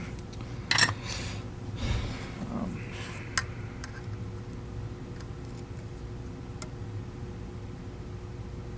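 A few sharp clicks and light taps of a soldering iron and small metal parts being handled while a wire is soldered to a vacuum cleaner motor's terminal post. The loudest click comes about a second in, over a faint steady hum.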